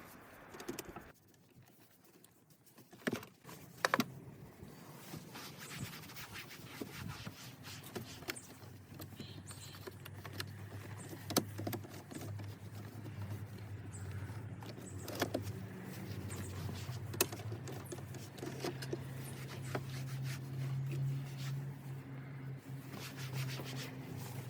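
Scattered taps, clicks and light scraping of cleaning work on car interior plastics, over a steady low hum.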